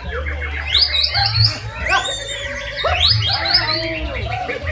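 White-rumped shamas (murai batu) singing, a rapid run of whistled sweeps and chirps with overlapping phrases, over a steady low hum.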